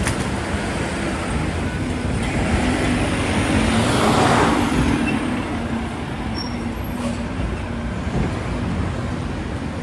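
City street traffic: a steady engine hum under road noise, with a vehicle passing close and loudest about four seconds in.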